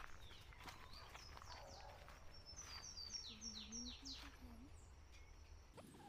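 Faint birdsong: a quick series of short, falling whistled notes repeated several times, starting about a second in, over soft footsteps on a leaf-littered trail.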